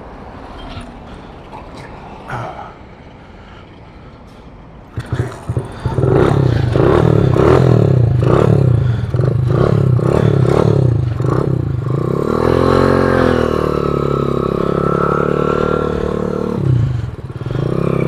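Hero Honda CD 100 single-cylinder four-stroke motorcycle engine fitted to a BMX bicycle, catching on a kick start about five seconds in. It is then revved in quick repeated blips and settles into a steadier run.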